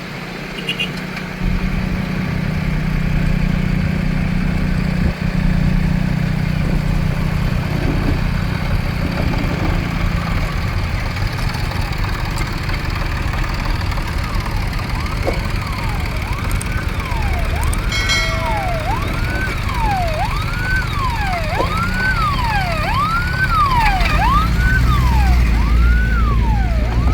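Tractor engines running with a low rumble. About halfway through, a siren starts wailing, rising and falling just under once a second, and keeps on over the engines.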